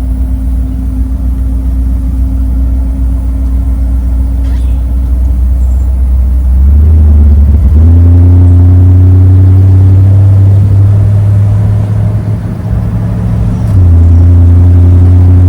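1956 Ford Thunderbird's V8 engine and exhaust pulling the car along. About seven seconds in, the engine note rises and grows louder as the car accelerates. It eases off briefly, then picks up again near the end.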